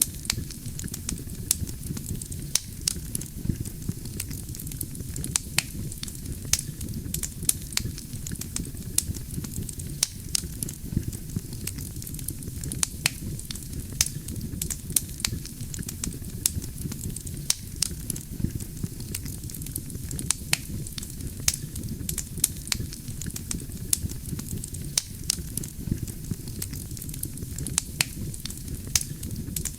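Wood campfire burning steadily: a low rumble of flame under a hiss, with frequent irregular sharp crackles and pops from the burning logs.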